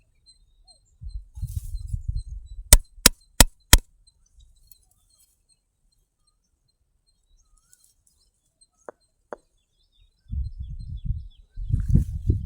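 Four sharp knocks in quick succession, about three a second, with low rumbling noise before them and again near the end, and two faint clicks in between.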